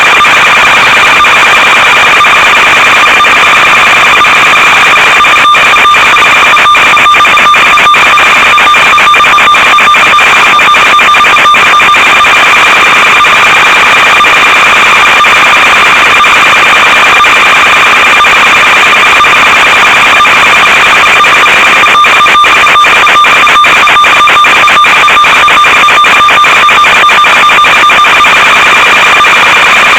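Loud steady static hiss with a constant electronic whine, the noise of an analog FPV video link's audio channel. Rapid crackling dropouts break it in two stretches, one about five seconds in and one about two-thirds of the way through.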